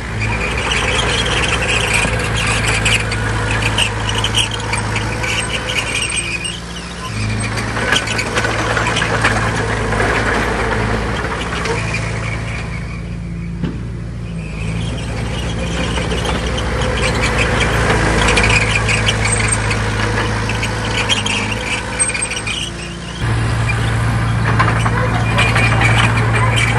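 Diesel engine of heavy earthmoving machinery running under load, with a high squeal over it. The engine note dips a few times and picks up louder again near the end.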